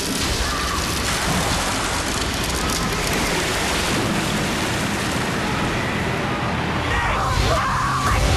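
Steady rushing noise of storm wind and churning water, a dense hiss with no clear rhythm.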